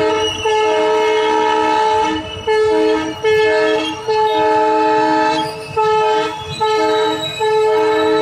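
Multi-tone train horn sounding a series of about eight blasts, some short and some over a second long, with brief gaps between them.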